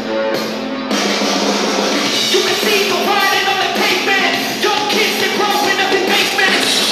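A song with singing played at full volume through a tiny 3 W Landmark Shell LM BT-1045 Bluetooth speaker. The fuller band comes in about a second in, and the vocals follow at about two seconds.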